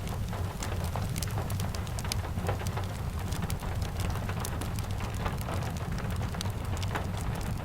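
Steady rain falling, with a deep low rumble underneath and many sharp little ticks and pops scattered throughout.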